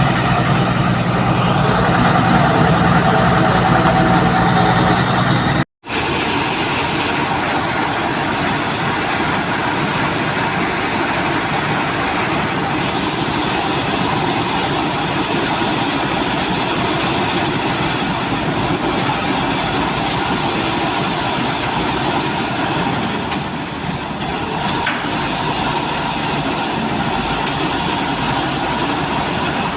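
Heavy truck engine running steadily, with a brief drop-out to silence about six seconds in.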